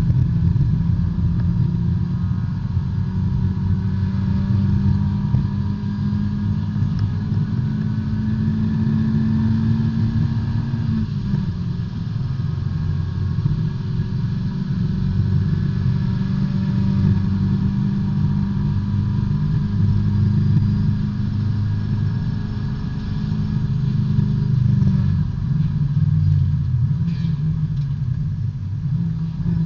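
In-car sound of a small B-Spec race car's four-cylinder engine pulling hard at racing speed: a steady engine note that drops about eleven seconds in, then climbs and falls again as the car goes through the corners.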